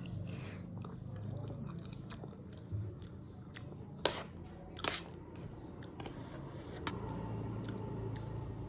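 Close-up eating sounds: chewing, with a few sharp, crisp crunches of a crunchy snack, the loudest about four and five seconds in.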